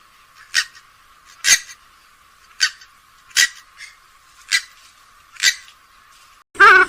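Grey-headed swamphen giving short, sharp single calls about once a second, six in all. Near the end a louder, wavering call suddenly takes over.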